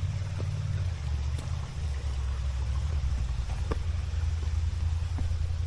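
Off-road vehicle's engine running low and steady while crawling over rocks, with a few light knocks scattered through it.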